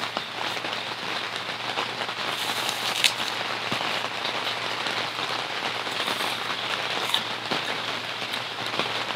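Steady rain falling, with a few sharp ticks; the loudest tick comes about three seconds in.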